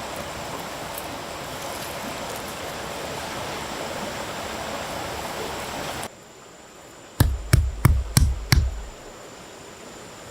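Steady rushing of flowing water that cuts off suddenly about six seconds in, as at an edit. After a short lull come five sharp knocks in quick succession over about a second and a half.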